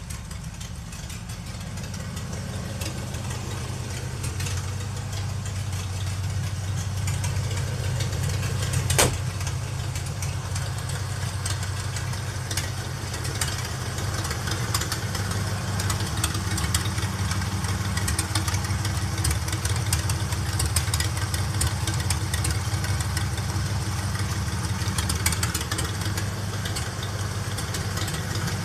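Rat rod truck's engine idling steadily on its first start, with light ticking over the low hum. A single sharp click about nine seconds in.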